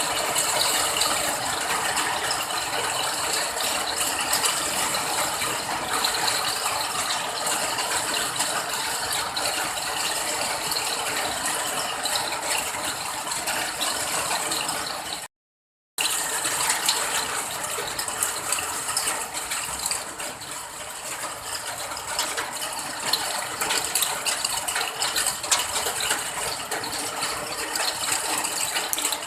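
Steady rain pattering, a dense, even spatter of small drop impacts. It cuts out to silence for under a second just past halfway, then carries on unchanged.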